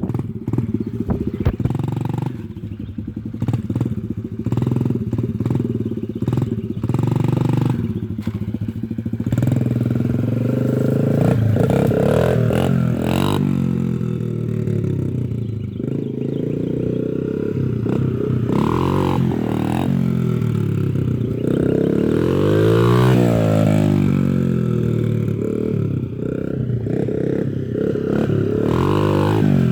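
Dirt bike engine running steadily, then from about ten seconds in revving up and down as it rides, loudest as it passes close about two-thirds of the way through.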